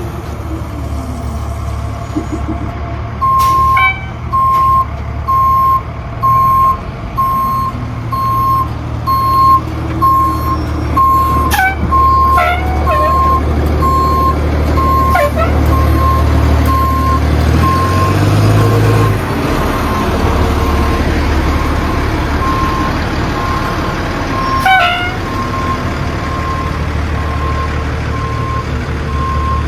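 Fire engine's reversing alarm beeping about once a second over its running engine, with a few short sharp sounds among the beeps.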